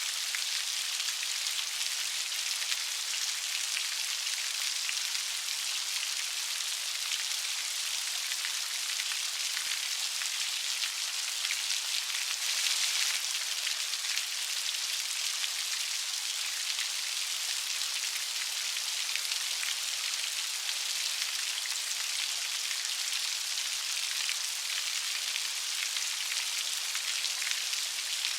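Light, steady rain pattering on a surface, an even hiss of many small drops, swelling slightly about halfway through.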